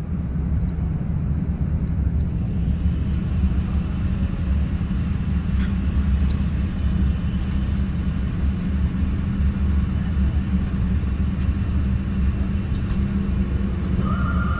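Steady low rumble inside an Airbus A350-900 passenger cabin, with a few faint clicks. A steady higher tone comes in near the end.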